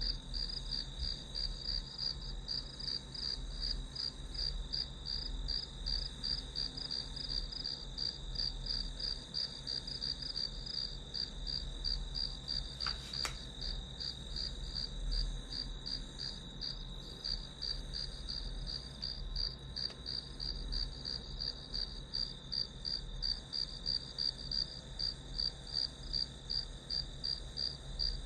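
Crickets chirping in a steady, even rhythm of about two chirps a second, with a single faint tap about halfway through.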